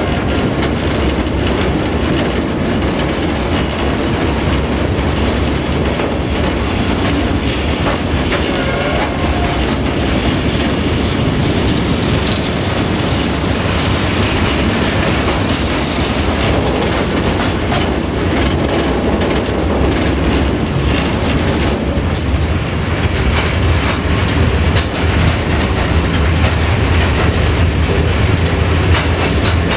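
Ballast train rolling along the track: a steady, loud rumble and rattle of wagon wheels, with a fine clicking over the rail joints.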